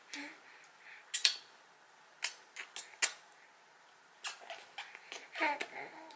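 Several sharp clicks and taps, as of small objects being handled, then a baby's brief babble near the end.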